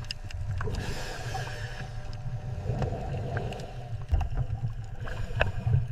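Low rumbling water noise with scattered faint clicks and no clear whistles, and a brief wash of hiss about a second in.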